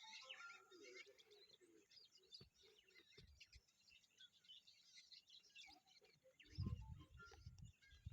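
Faint birdsong: many small birds chirping and twittering at once. A low rumble comes in near the end.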